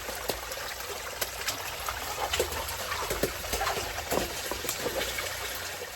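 Water trickling and splashing, with many short sharp splashes and ticks over a steady rush.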